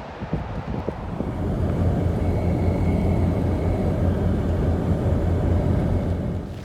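A vehicle running: a steady low rumble of engine and road noise that builds about a second in and cuts off sharply near the end.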